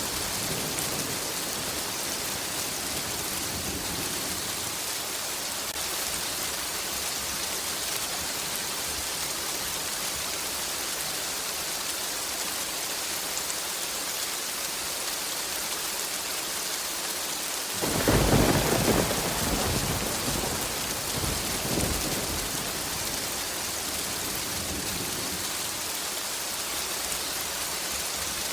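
Steady heavy rain hiss, with a clap of thunder about two-thirds of the way in that rumbles and dies away over a few seconds.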